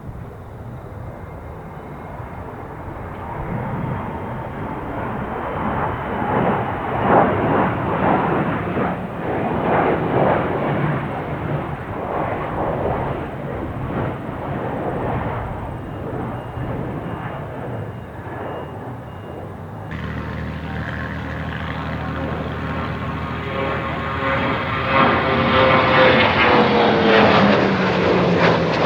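Aircraft engines running loud and steady as planes fly past in display. Near the end the engine pitch drops as an aircraft passes by.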